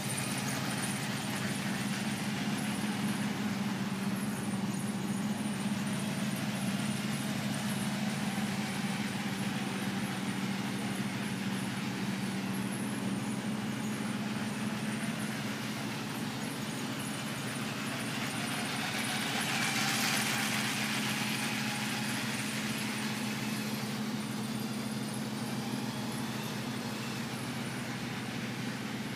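Motorised LEGO trains running around their layout: a steady electric motor hum, with a swell of rattle and hiss about twenty seconds in as a train comes closer.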